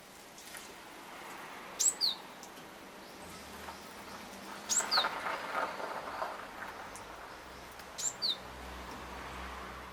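A small songbird calling three times, about three seconds apart. Each call is a pair of thin, high, quick notes falling in pitch.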